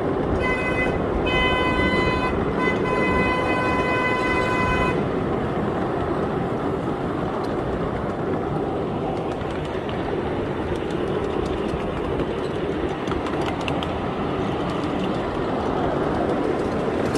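Train horn sounding twice, a short toot then a long one of about three and a half seconds, over the steady rumble of a train running on the track.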